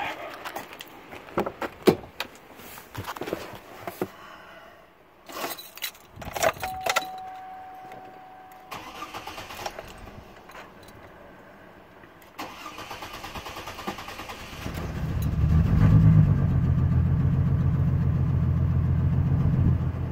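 GM 4200 inline-six engine cranking for a couple of seconds, catching, flaring up briefly and settling into a steady idle. It is a hard start, caused by carburetor cleaner sprayed into the intake manifold. Earlier come scattered clicks and knocks and a steady electronic chime lasting about two seconds.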